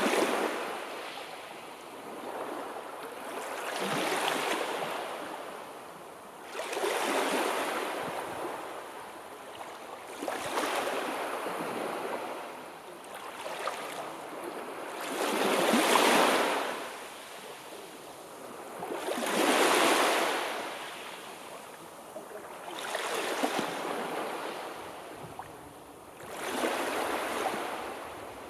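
Sea waves washing in, a surge of surf every three to four seconds that swells and then falls away, with the strongest surges about halfway through.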